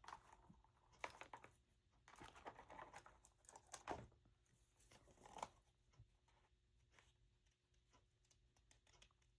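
Scissors cutting out a printed paper image: faint snipping and paper rustling for the first five seconds or so, then near quiet.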